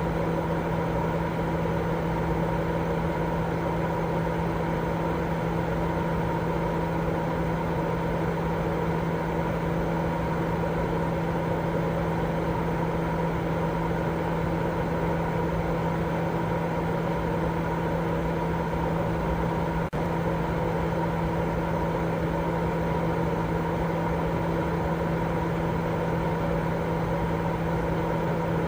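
Continuous white-noise sleep sound: a steady, even whooshing hiss with a low machine-like hum running through it. There is one very brief dip about twenty seconds in.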